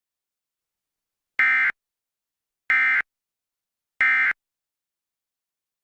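Three short, identical bursts of Emergency Alert System digital data tones, buzzy and shrill, a little over a second apart. They are the end-of-message code, signalling that the alert broadcast is over.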